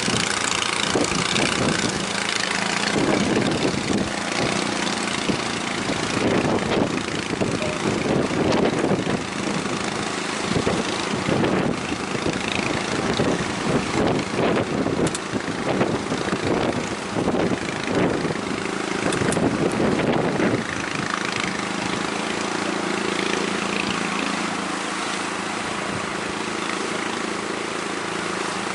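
Boat engine running steadily under strong wind buffeting the microphone and the rush of water, the buffeting heaviest through the middle of the stretch.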